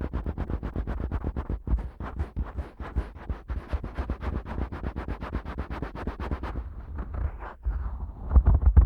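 Fingers pushing into and rubbing the ear canal of a Neumann KU100 dummy-head microphone, heard as rapid muffled pops and rubs with a deep bass, about six a second. After about six and a half seconds they slow into fewer, heavier strokes.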